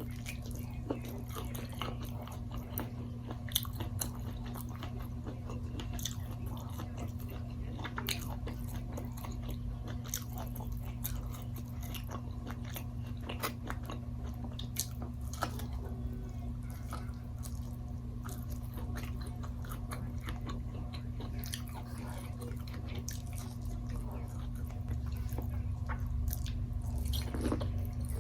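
Close-miked eating: chewing and biting with many small crunches and mouth clicks, over a steady low hum.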